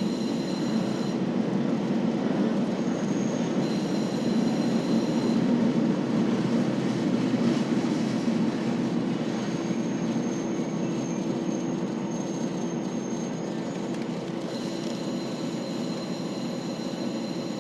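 KiHa 40 series diesel railcar running, with a steady drone from its diesel engine and the wheels on the rails. A thin, high wheel squeal rises over it from about ten seconds in and stops a few seconds later.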